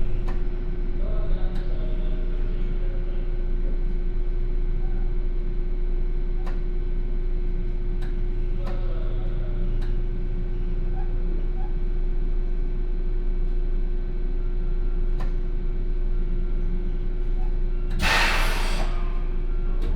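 Steady electrical hum inside a Sotetsu New 7000 series commuter train car, holding one unchanging pitch, with a few faint clicks. Near the end, a loud hiss of air lasts about a second.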